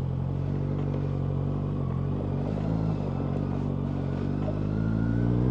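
Kawasaki Z900's inline-four engine through a Yoshimura exhaust, running steadily while riding, then rising in pitch and getting louder near the end as the bike accelerates.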